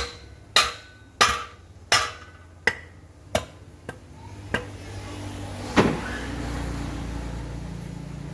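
A hammer striking metal about nine times at a steady pace of roughly one and a half blows a second, each blow ringing briefly. A steady low hum follows in the last couple of seconds.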